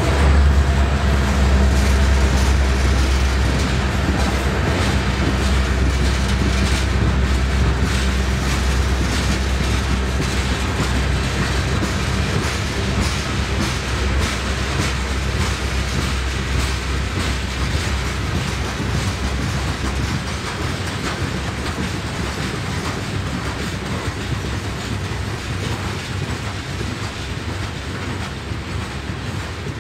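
A diesel-hauled coal train rolling past: a low locomotive engine drone that slowly fades as the train pulls away, with steady clicking of the car wheels on the rails.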